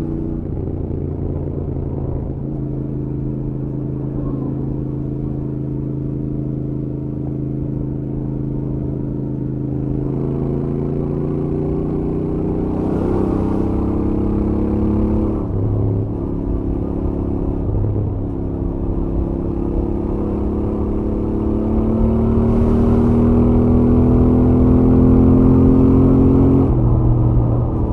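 Royal Enfield Interceptor 650's parallel-twin engine through its stock exhaust, heard onboard at highway speed. It holds a steady note for about ten seconds, then climbs in revs, with short drops in pitch at gear changes about halfway through and near the end, getting louder as it pulls.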